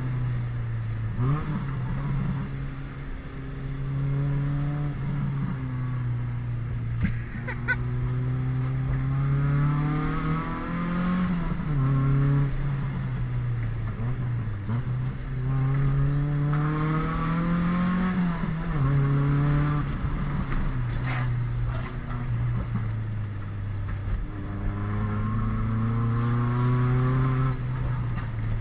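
Honda Civic's freshly built four-cylinder engine driven hard on a winding road, its pitch climbing and then dropping again and again as it accelerates, shifts and slows for corners.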